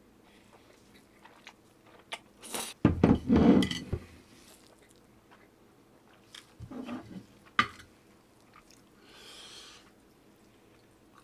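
A person biting into and chewing crunchy food: a loud burst of crunching about three seconds in, and a second, smaller one about seven seconds in that ends in a sharp click.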